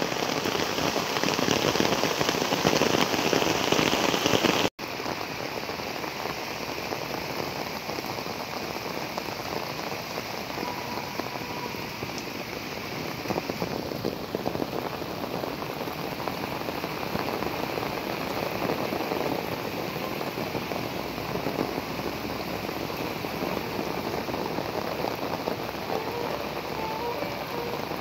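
Heavy rain falling steadily, mixed with muddy floodwater rushing along a swollen canal. The sound drops out for an instant about five seconds in and comes back a little quieter.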